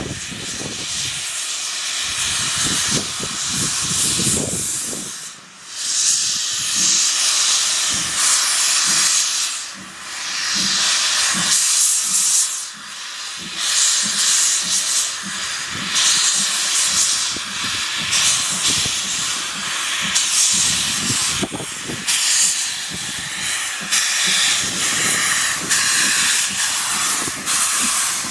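Steam hissing loudly from an Ivatt Class 2MT 2-6-2T tank locomotive, in long surges broken by a few short pauses.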